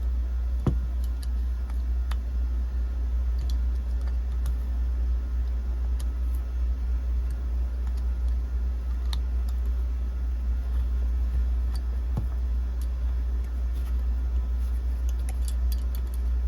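Scattered light clicks and taps of a screwdriver and small metal parts as screws on an RC nitro engine are tightened, over a steady low hum.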